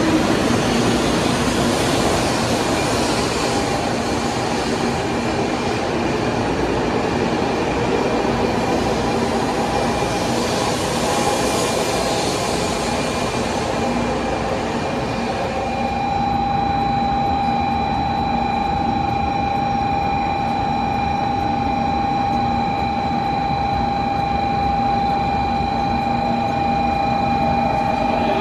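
Train at a station platform: a loud, steady rushing noise with humming tones. About halfway through the rush dies down, leaving a steady whine.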